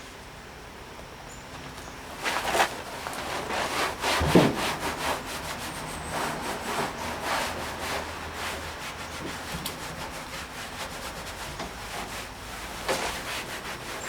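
Quick, irregular hand-rubbing strokes on the painted steel body of a 1959 VW single cab pickup, scrubbing off grime to bring up the old paint patina. The strokes start about two seconds in, with a single thump about four seconds in.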